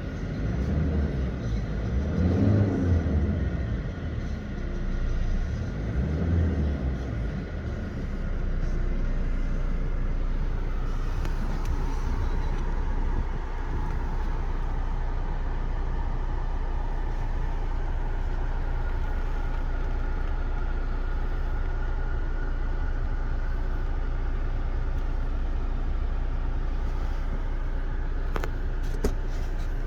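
Mitsubishi Triton's 2.4-litre VGT turbodiesel running, surging louder a few times in the first eight seconds and then idling steadily. A few sharp clicks come near the end.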